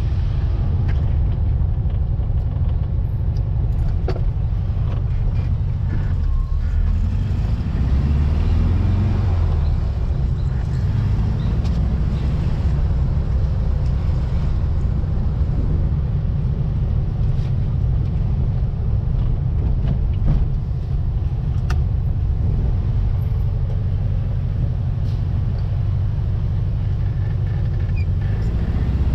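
1700cc air-cooled Volkswagen flat-four engine in a Baja Bug running under way, a steady low engine note whose pitch shifts a little about a quarter of the way in.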